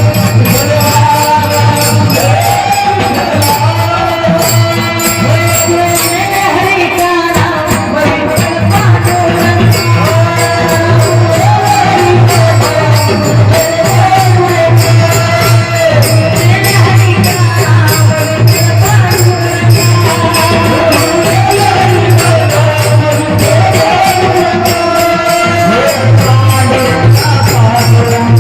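Devotional kirtan music: a voice sings a wavering melody while small hand cymbals beat a fast, even rhythm over a steady low drone.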